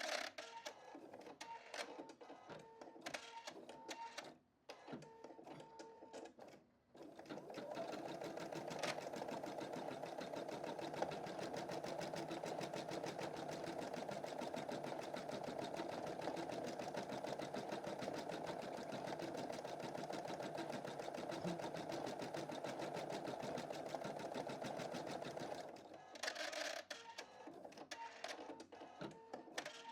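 Computerized embroidery machine stitching a design. It runs unevenly with two brief pauses over the first several seconds, then stitches steadily at speed until near the end, when it turns uneven again.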